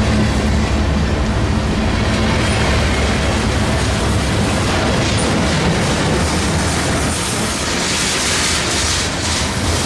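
A freight train passing close by. Low diesel locomotive engine drone in the first few seconds gives way to the steady rumble and rattle of the cars rolling past. A brighter hiss of wheels on the rails grows in the later seconds.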